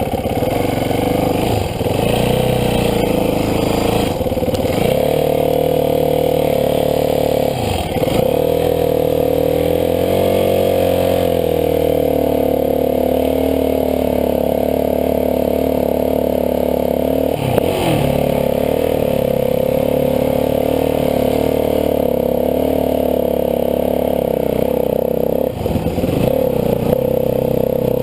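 Dirt bike engine running steadily while towing a second bike on a strap along a bumpy trail. Its pitch rises and falls with the throttle, and there are brief dips several times that fit gear changes or easing off.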